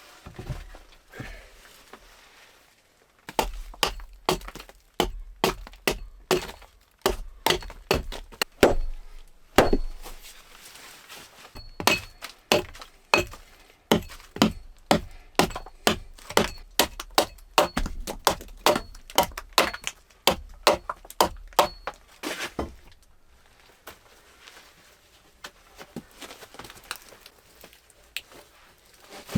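A long run of hard chopping blows on wood, about two a second, with a short break partway through, stopping a few seconds before the end.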